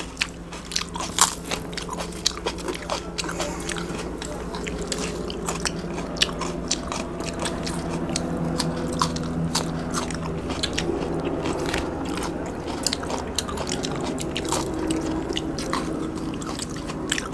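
A person chewing and biting into an egg burger close to the microphone: many short, irregular crunchy and wet mouth clicks.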